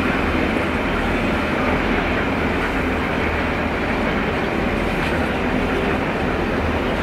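Passenger coaches of a steam-hauled charter train rolling past on the platform line: a steady rumble of wheels on rail.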